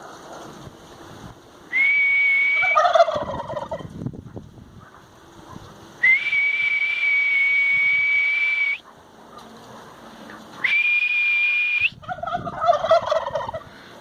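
Turkey toms gobbling twice in rapid rattling bursts, each answering a loud, steady high whistle. The whistle sounds three times, and the second, longest one gets no gobble back.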